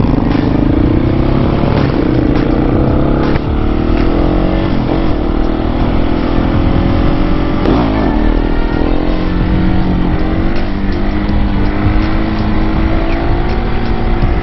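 Husqvarna 701 supermoto's single-cylinder engine running under way, its pitch rising and falling several times with throttle and gear changes.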